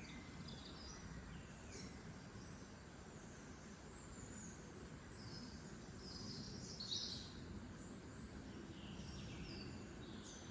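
Birds singing, with scattered short chirps and trills over a faint, steady outdoor hiss. The loudest run of calls comes about seven seconds in.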